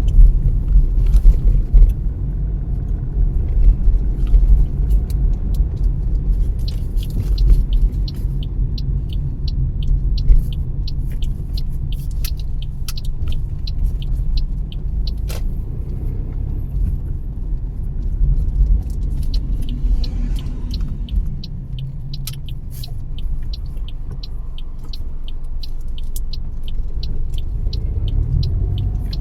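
Car driving along a road: a steady low rumble of road and engine noise, with a run of light, rapid ticks through most of the stretch.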